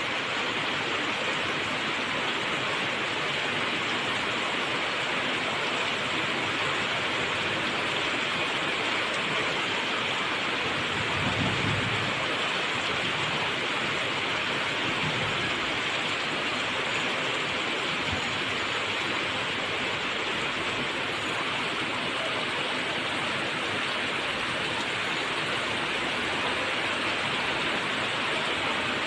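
Steady heavy rain falling, an even hiss with no pauses. A brief low thud stands out a little before the middle.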